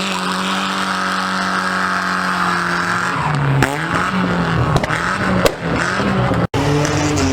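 Car engine revved hard, held at high revs for about three seconds, then falling and blipping up and down. The sound cuts out sharply for a moment near the end.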